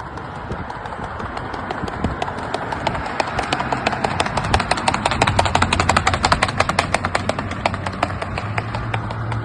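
Horse's hooves beating a fast, even rhythm in the andadura, a lateral two-beat gait. The beats grow louder toward the middle and then fade again.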